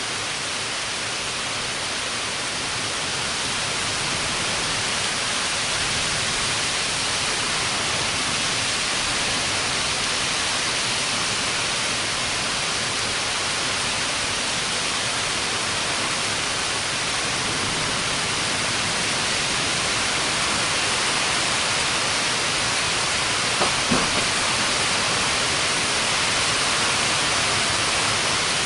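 Heavy rain falling steadily, a dense even hiss, with two small ticks about four seconds before the end.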